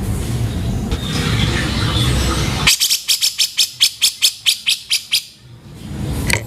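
Grey-cheeked bulbul (cucak jenggot) giving its harsh rough call, a fast rattling run of about fourteen sharp notes, roughly six a second. It starts a little before halfway and lasts about two and a half seconds. Before it there is a steady low rumble with faint bird calls.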